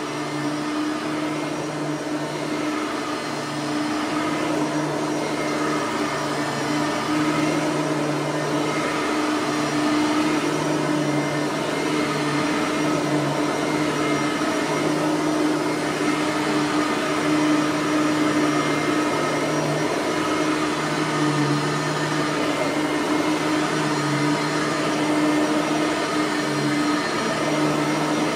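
Bissell 3510 upright vacuum cleaner running over a rug, a loud steady motor hum with a lower note that keeps cutting in and out.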